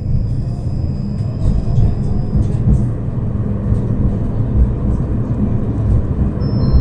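Tram running along the rails, a steady low rumble heard from inside the passenger car, with two short high beeps near the end.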